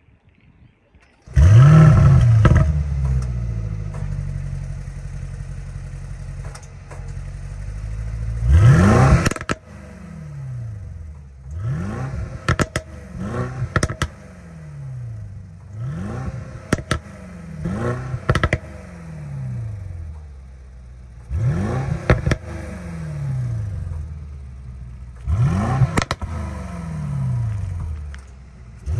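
Mercedes-AMG GLE 63 S twin-turbo V8 cold-started about a second in with a loud flare of revs, settling into a fast cold idle. About eight short throttle blips follow, each rising and then falling back, with a few sharp cracks from the exhaust.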